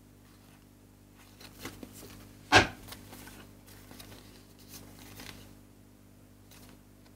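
Tarot cards being handled over a wooden table: soft rustling and sliding of cards, with one sharp tap about two and a half seconds in.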